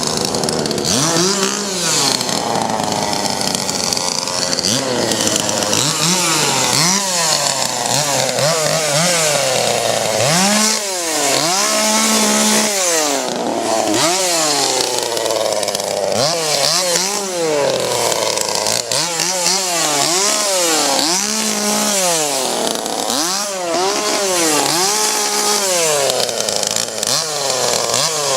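Gas chainsaw engine revved over and over, its pitch climbing and falling with each blip of the throttle, now and then held briefly at the top.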